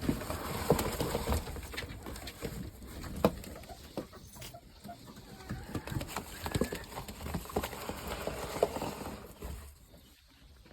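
Pigeons in a backyard coop: scattered taps and scuffles of birds moving and pecking, with a few low coos.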